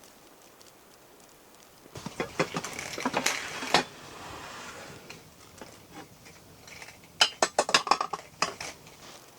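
Metal camp cookware and utensils clinking and clattering as they are handled, in two bouts: one starting about two seconds in, and a quicker run of clinks about seven seconds in.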